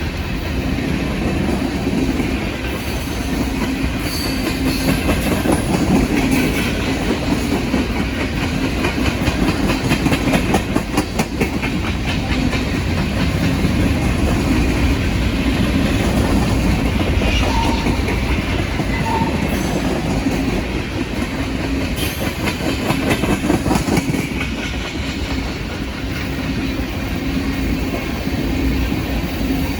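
Norfolk Southern freight train rolling past, a continuous rumble with the clickety-clack of its wheels over the rail joints, the clacking most distinct about ten seconds in.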